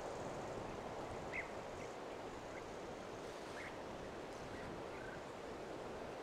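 Steady outdoor rushing noise, like wind through trees, with a few short, high bird chirps scattered through it.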